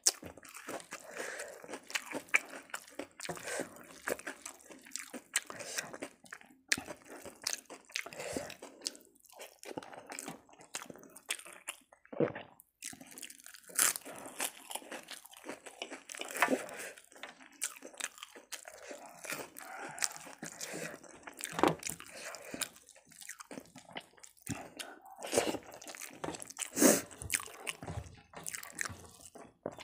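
Close-up eating sounds: crisp crunching bites and chewing, in sharp separate cracks between softer wet mouth noises as rice and dal are eaten by hand.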